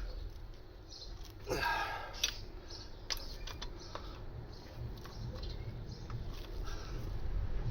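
Scattered light clicks and knocks of hand tools on the wheel bolts as they are tightened in a star pattern, with a short scraping rustle about a second and a half in.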